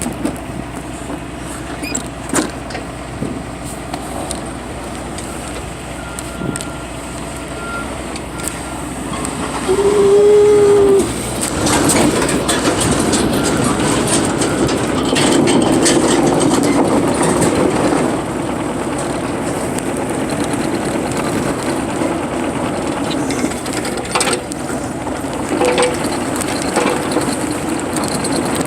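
Excavator's diesel engine running while its hydraulics are worked, the sound swelling for several seconds in the middle. A short whining tone about ten seconds in is the loudest sound.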